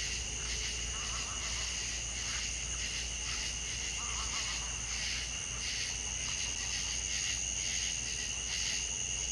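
Night-time insect chorus of crickets, a steady shrill trilling that pulses about twice a second, over a low background rumble.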